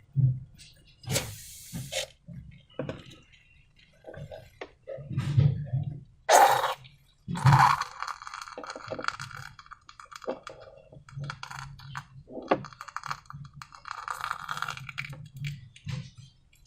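Hands working slime and the plastic and balloon materials: an irregular run of crackles, clicks and clinks with short squishy swishes, busiest about halfway through.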